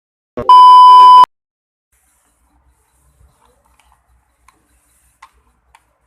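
Washing machine control board's buzzer giving one loud, steady beep of under a second, right after a click: the repaired module powering up and responding. A few faint ticks follow.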